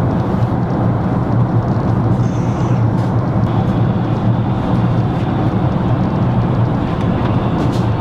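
Steady airliner cabin noise in flight: the even rushing drone of engines and airflow heard inside the cabin, with a strong low hum.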